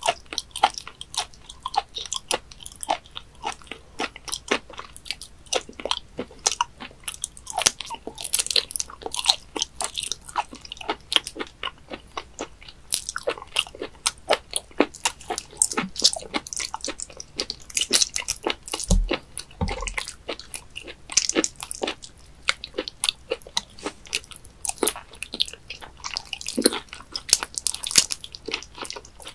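Wet chewing and biting of raw webfoot octopus sashimi: many short sticky clicks and smacks, with two low knocks about two-thirds of the way through.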